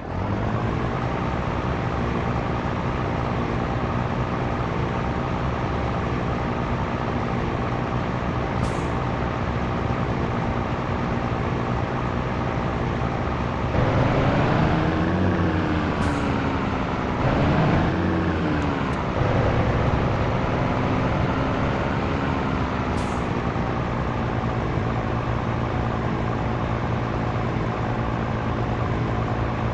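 Scania T113 truck's diesel engine running steadily on the road. About halfway through it gets louder and its pitch rises and dips twice before settling back to an even note.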